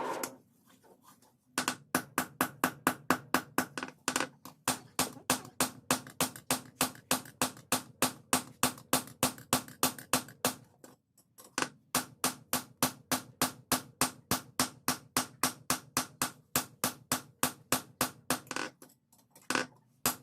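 Hammer blows on hot leaf-spring steel being forged into a dao blade, quick and even at about four strikes a second, each with a short ring. They come in two long runs with a brief pause near the middle and a few more blows near the end.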